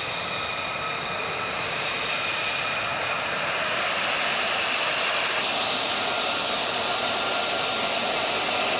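Jet aircraft engine running with a steady high whine over a rushing noise, growing louder about four seconds in.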